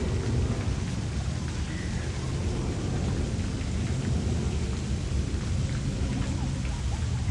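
Wind buffeting the microphone: a steady low rumble that rises and falls constantly, with no clear sound from the bird.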